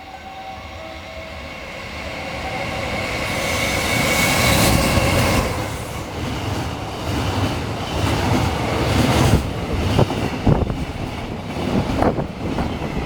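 Freight train passing close by on the rails. Its rumble builds to a peak about four to five seconds in, then the wagons' wheels knock over the rail joints in an irregular clickety-clack.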